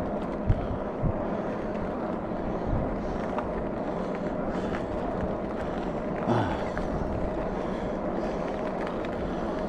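Electric fat-tire bike being ridden: steady wind rush and tyre noise, with a faint steady hum underneath.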